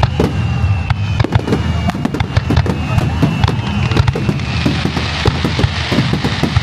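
Kagiya fireworks display: a dense barrage of shells bursting, with rapid sharp cracks over a continuous low rumble of booms. Faint whistles glide slowly down in pitch through the first few seconds.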